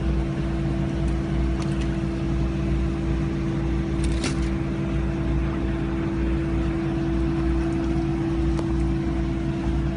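A machine running steadily, a constant low hum with one strong steady tone, and a few light clicks about four seconds in.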